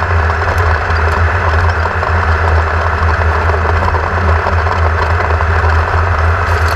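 Class 1600 off-road race car's air-cooled VW flat-four engine running steadily, with a strong, even low drone.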